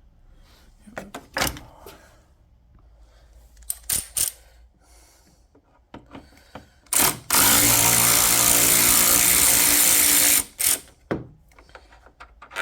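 A handheld power drill is blipped briefly, then runs steadily for about three seconds, starting about seven seconds in. Before and after it come scattered clicks and knocks of tools being handled.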